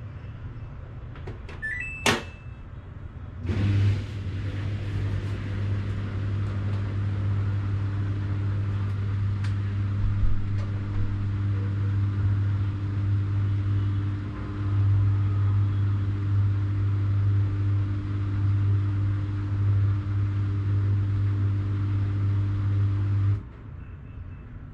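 Washing machine starting up: a few short electronic beeps and a click, then a steady low electrical hum with a rushing hiss that runs for about twenty seconds and cuts off suddenly near the end.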